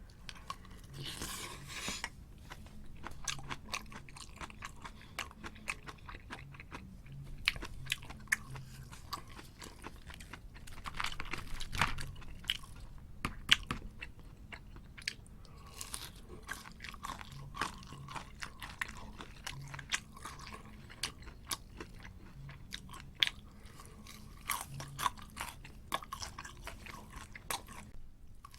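A person chewing and crunching food close to the microphone, with many sharp crisp crunches and a few louder bites.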